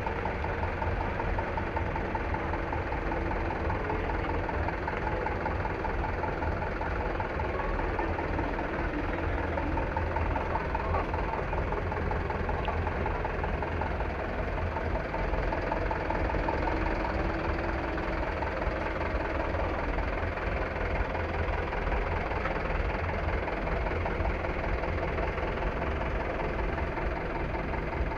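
Truck engine idling steadily, a constant low rumble.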